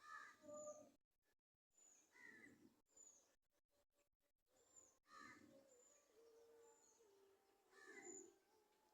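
Faint bird calls: short, high, falling chirps repeating about every second, with lower calls every few seconds.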